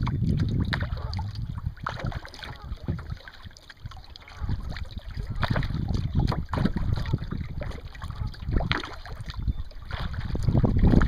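Kayak paddle strokes splashing in the water every second or two, with wind buffeting the microphone.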